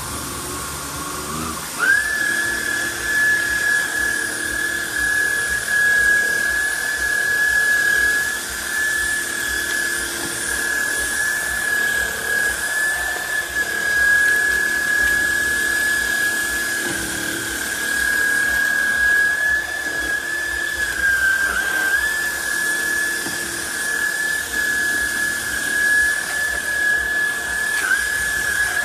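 Trucozie cordless stick vacuum's motor running with a steady high whine, stepping up in pitch about two seconds in, with brief dips in pitch twice later on.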